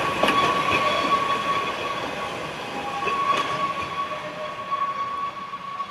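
Narrow-gauge train running on its rails, with a steady high-pitched squeal from the wheels and scattered clicks over a rumble, slowly getting quieter.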